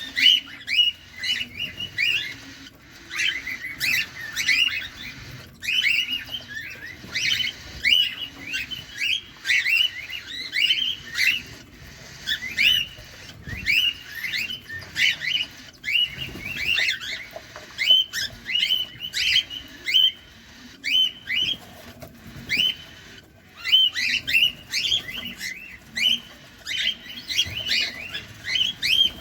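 Cockatiels chirping: a continuous run of short, sharp chirps, several a second, each a quick pitch sweep.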